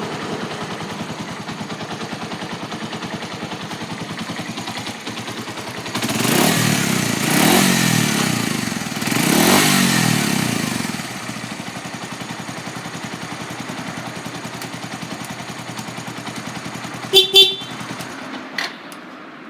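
A 2003 Suzuki Grasstracker Big Boy's single-cylinder four-stroke engine idling, revved up and back down twice. Near the end the horn sounds two short beeps, and the engine stops soon after.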